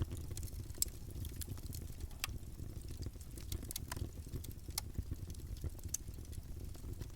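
Campfire burning: a steady low rumble of the flames with irregular sharp crackles and pops of the burning wood.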